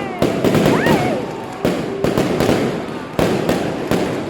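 Fireworks going off: a string of sharp bangs and pops, some in quick pairs, with a crowd talking underneath and a brief rising whistle about a second in.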